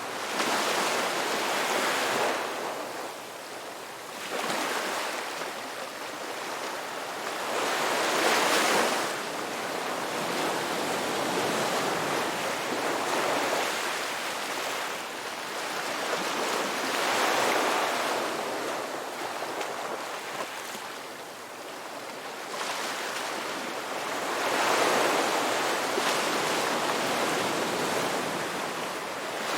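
Ocean waves breaking and washing up the shore, a rushing surf that swells and fades again every few seconds.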